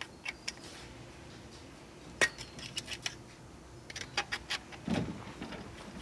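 Scattered sharp metallic clicks and clinks of hand tools and bolts being handled against metal, with a duller knock about five seconds in.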